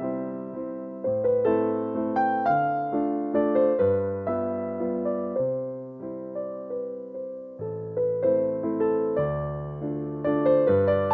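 Slow, gentle piano music: soft chords and a simple melody over low bass notes, each note struck and then fading.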